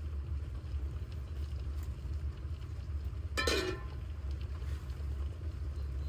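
Steady low rumble of wind buffeting the microphone, with a short pitched cry, a voice or animal call falling in pitch, about halfway through.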